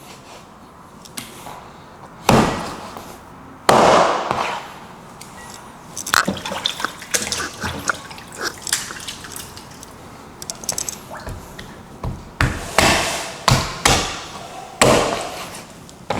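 Knife chopping chicken back through bone on a wet cutting board: irregular sharp knocks, with several in quick succession near the end. Wet splashing and dripping sounds come in between.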